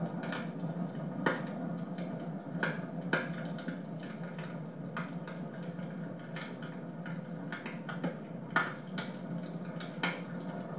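Wood fire burning in a fireplace, crackling: irregular sharp pops and snaps, about six of them, over a steady low rush of the flames.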